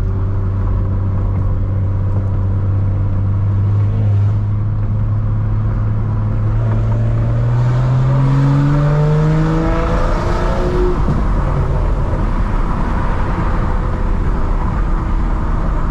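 Straight-piped BMW 335i (E92) N55 turbocharged inline-six under way, running steadily and then accelerating: the engine note climbs for about four seconds from roughly six seconds in, then eases off and settles to a steady drone.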